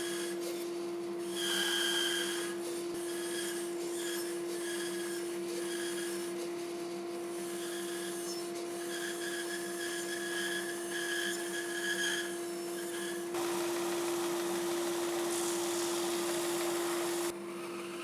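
Bandsaw running with a steady motor hum while its blade trims plywood in short, repeated cuts. About three-quarters of the way through comes a few seconds of louder, continuous cutting, and the sound changes shortly before the end.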